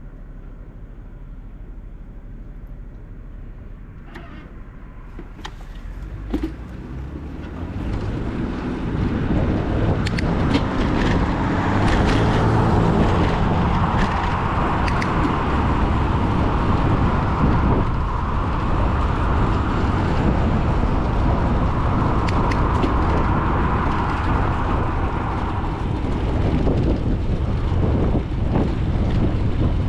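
Wind and road noise from a moving bicycle, growing much louder about seven seconds in and then staying steady and loud. A single sharp click comes just before the rise.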